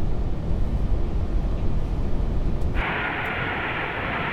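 Steady low rumble of the Airbus A380 flight deck on short final, airflow and engine noise. About three seconds in, a band of radio hiss switches on abruptly, as a transmission is keyed on the frequency.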